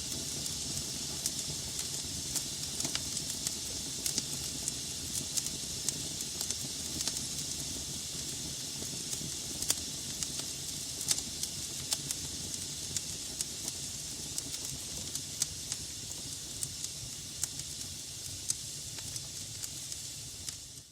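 Wood logs burning in a fireplace: a steady hiss with frequent sharp crackles and pops.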